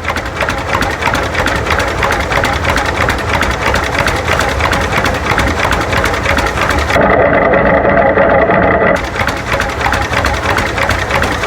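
Old tractor engine running steadily with a fast mechanical clatter. From about seven to nine seconds in, a louder steady drone sits over it.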